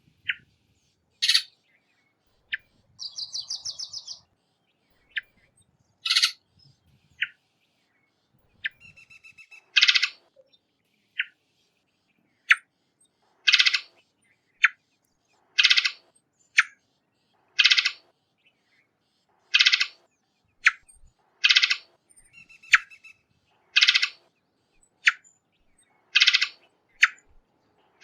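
Varied thrush giving a series of short call notes, roughly one every one to two seconds, with a brief rapid trill about three seconds in.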